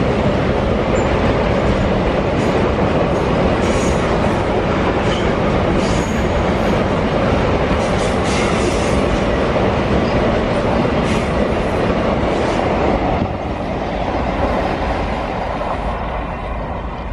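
Double-stack container wagons of a freight train rolling past at speed: a steady rumble of steel wheels on the rails with clickety-clack over the rail joints and a few short high-pitched wheel squeals. The noise drops off about thirteen seconds in as the last wagons and brake van go by and the train moves away.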